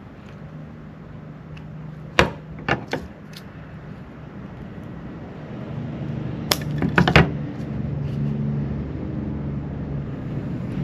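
Scissors snipping through the thin wire stems of artificial berries: sharp clicks, three at about two to three seconds in and a quick cluster around six to seven seconds, over a low steady hum.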